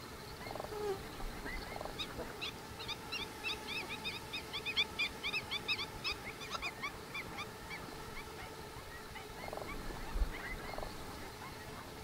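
Wild birds calling: a fast chattering run of short, high, down-slurred notes, about five a second, that swells and then tails off over about five seconds, with a few lower calls before and after.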